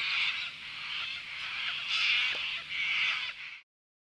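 Cockatoos screeching, several calls overlapping in bursts; the sound cuts off abruptly near the end.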